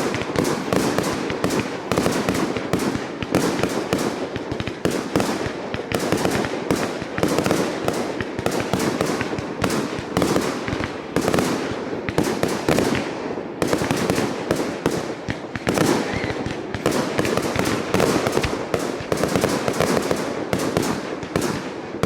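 Fireworks display in full barrage: a rapid, continuous run of shell bursts and crackling, many bangs overlapping with no pause.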